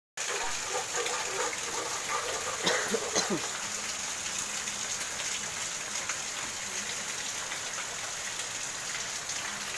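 Steady rain falling on roofs and wet ground, a constant even hiss, with a few sharp knocks about three seconds in.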